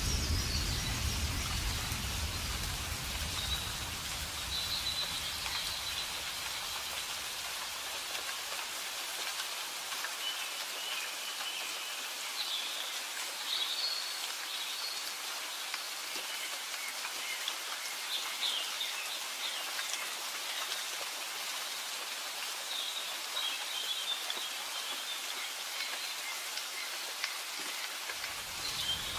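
Steady rain falling, a continuous hiss, with birds chirping now and then. A low rumble fades out over the first few seconds.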